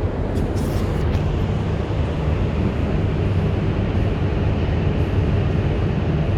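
Steady low hum and rush of running machinery, with a few faint light clicks about half a second to a second in.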